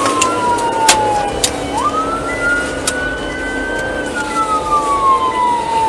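Police car siren wailing in slow rising and falling sweeps, over steady vehicle noise, with a few sharp clicks.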